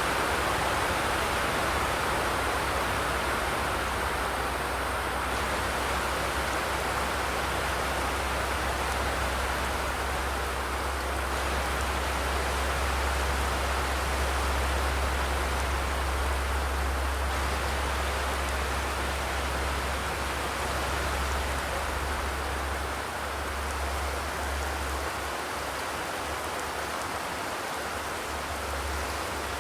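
Steady rain drumming on a corrugated zinc roof, an even hiss of many drops, with a low steady rumble underneath that fades a little near the end.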